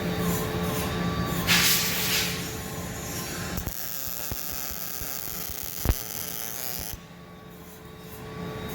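MIG welding arc running with a steady crackling hiss and a brief louder hiss partway through, then stopping after about three and a half seconds; a few light knocks and one sharp metallic clank follow.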